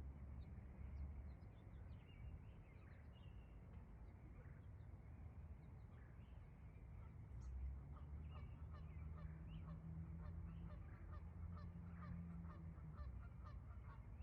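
Faint honking of a flock of geese, many short calls that come thicker and faster from about halfway through, over a low, steady rumble.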